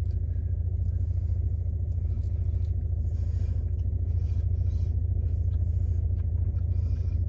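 Steady low rumble of a parked car idling, heard from inside the closed cabin, with faint chewing of a bite of soft-shell fried chicken taco.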